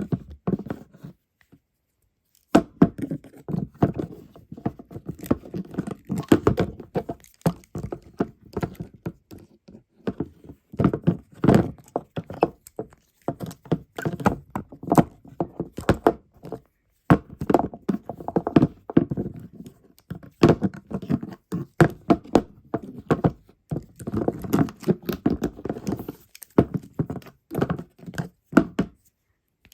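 Close, irregular knocking, tapping and scratching as a cicada and a stag beetle grapple, their legs, jaws and hard shells striking and scraping against each other and the surface under them. Quiet for about a second near the start, then nearly continuous with a few brief pauses.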